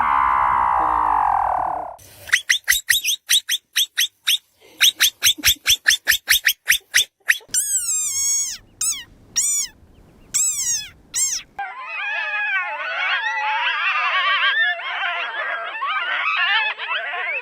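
A run of different animal calls: a falling tone, then a fast train of clicks, then short whistled calls that sweep downward, and from about twelve seconds in a dense warbling chorus of many callers.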